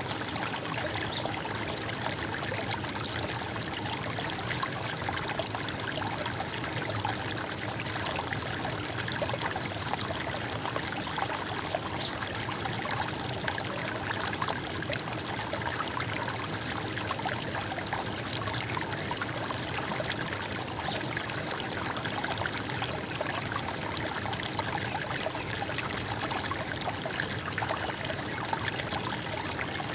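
Running water: a stream trickling and gurgling steadily, with no letup.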